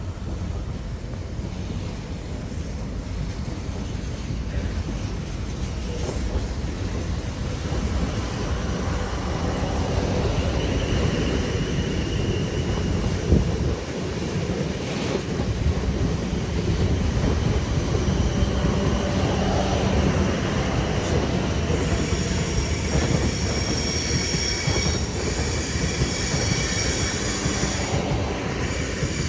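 A train running past on the line, a steady low rumble with wheel clatter that builds louder, one sharp knock about halfway through, and high-pitched wheel squeal setting in during the last third.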